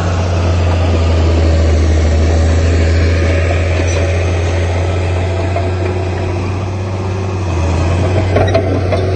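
Heavy diesel engine of earthmoving equipment running steadily with a deep, low drone; it eases off slightly about seven seconds in and picks up again near the end.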